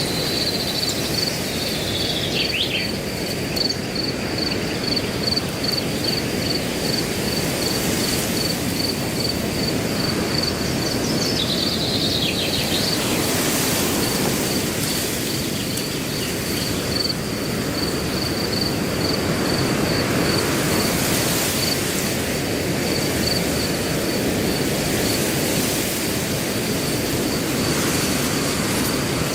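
Wind rushing steadily through grass, with a cricket chirping in an even pulse, about two chirps a second. Short falling bird calls cut in a few seconds in and again near the middle.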